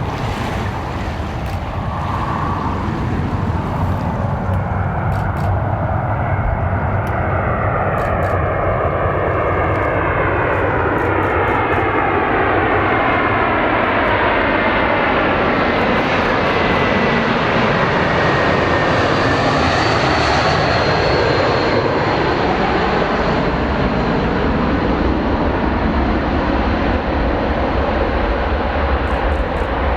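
Airbus A320-232 jet airliner on landing approach flying past, its IAE V2500 turbofans swelling to their loudest about two-thirds of the way through and then easing off. A high whine drops in pitch as the aircraft passes.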